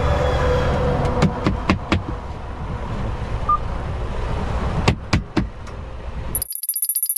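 Semi truck cab running with a steady low rumble, broken by sharp knocks in two quick clusters of three or four. Near the end the rumble cuts off abruptly into a short run of fast electronic ticking.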